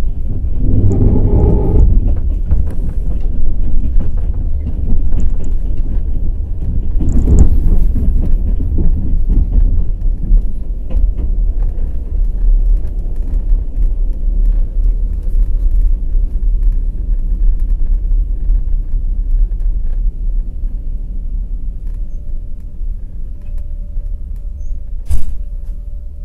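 Night express passenger train No. 202 Kovel–Kyiv running on the track: a loud, low rumble of wheels with scattered clicks of the wheels over rail joints, easing gradually over the second half. A single sharp knock comes near the end.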